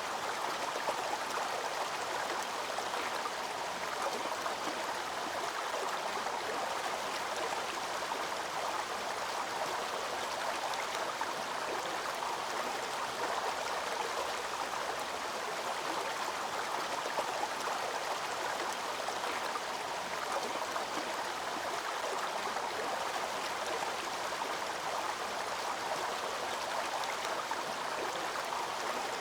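Waterfall and stream water rushing steadily: an even, unbroken white-noise-like wash.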